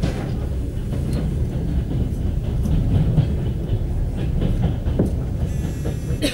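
Express passenger train carriage running on the rails as it pulls out of a station, heard from inside the carriage: a steady low rumble with scattered wheel knocks over the track. A thin high squeal comes in near the end.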